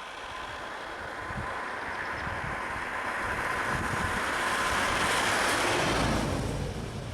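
A road vehicle passing by: the noise of its engine and tyres builds steadily, peaks about five to six seconds in, then falls away.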